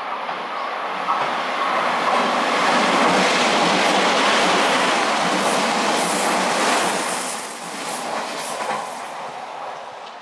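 Odakyu 30000 series Romance-car electric train running through the station without stopping: a rush of wheels and running gear that builds, is loudest for several seconds as it passes, then fades as it goes away. Sharp clicks of the wheels over rail joints come in the second half.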